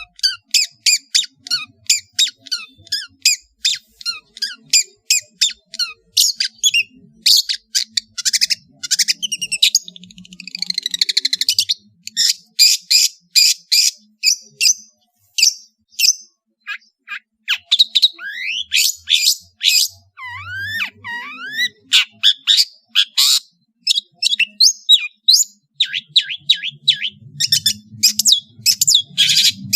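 Long-tailed shrike (cendet) singing hard in a rapid, varied stream of short, sharp high notes, with a harsh buzzy phrase about ten seconds in and some sliding whistled notes about two-thirds of the way through.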